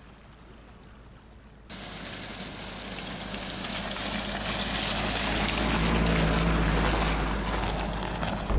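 Quiet at first. About two seconds in, loud, steady rushing of wind and water starts suddenly, with a faint low hum under it.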